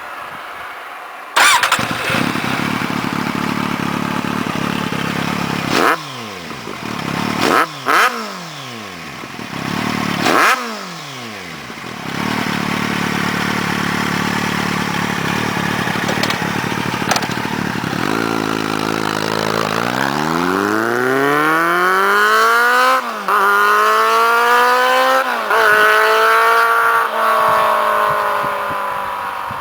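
A 2008 Kawasaki Z750's inline-four running through a LeoVince SBK EVO II exhaust. It idles, is blipped sharply three times, each rev falling back quickly, then pulls away, the note rising through two quick upshifts before easing off.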